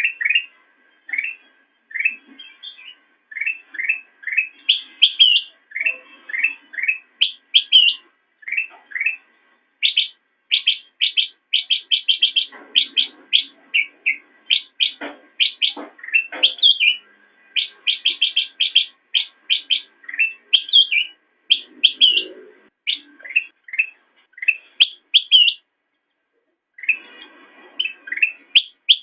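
Kutilang emas, a bulbul, singing: short, sharp chirping notes delivered in quick runs, with a brief pause near the end.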